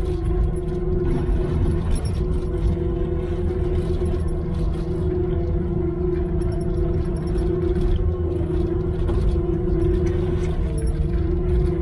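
Diesel engine of a heavy machine running at a steady speed: a constant low rumble with a steady whine riding over it.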